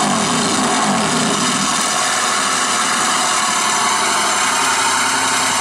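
Sound effect of a small engine idling steadily just after starting, played through a speaker as part of a comic mime act in which a cart's engine is made to start.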